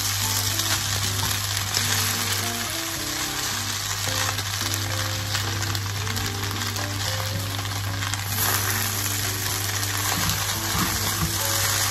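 Glass noodles and vegetables sizzling in a hot non-stick wok as they are tossed and stir-fried with tongs, over background music.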